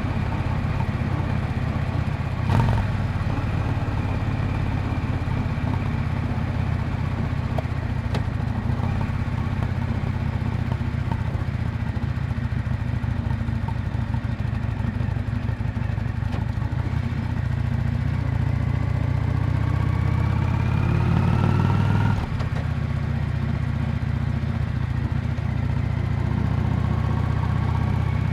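Exhaust of a 1998 Yamaha Drag Star 400 Classic's air-cooled V-twin, running steadily on the road, with one short knock early on. Past the middle the engine note climbs for several seconds as it pulls harder, then drops abruptly and settles back to a steady note.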